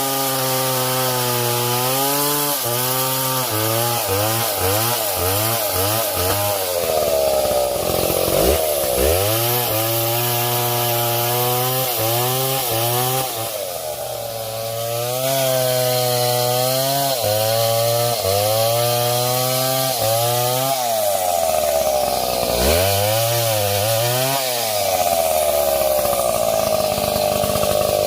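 Stihl MS 070 two-stroke chainsaw cutting into a tree, its engine pitch repeatedly sagging under load and picking up again. It bogs down deeply a few times, about a third of the way in, near the end, and just after.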